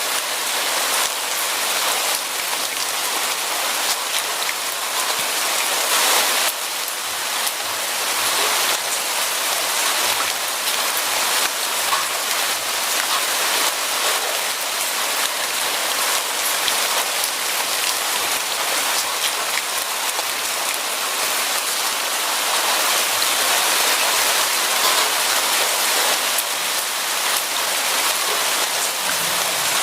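Steady rain falling on a surface, a dense hiss of many small drop patters.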